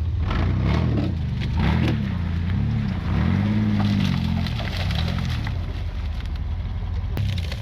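Mud truck engine revving up and down in repeated surges, about one a second, as it churns through the swamp, with scattered cracking and snapping throughout.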